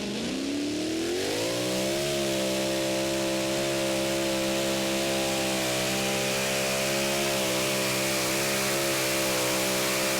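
Super modified two-wheel-drive pulling truck's engine at full throttle, dragging the sled down the track: the revs climb over the first two seconds, then hold at a high, steady pitch with a slight waver.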